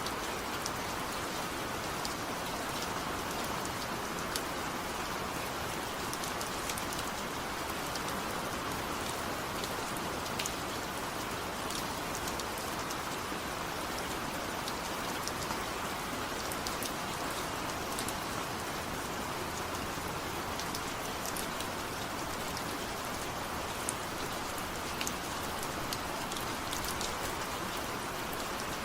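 Steady rain falling, a dense even hiss with many fine drop ticks scattered through it.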